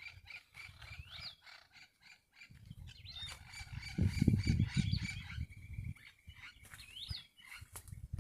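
Outdoor nature ambience: birds calling with short rising chirps about once a second, over a steady high thin buzz, with low rumbling noise loudest in the middle.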